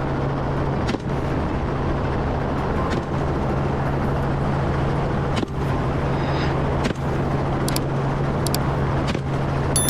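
Helicopter in flight: a steady engine drone over an even rushing noise, with a few faint clicks.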